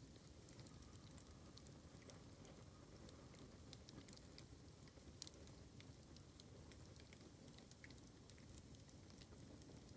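Bamboo campfire crackling faintly: scattered small pops and ticks over a low, steady noise of burning.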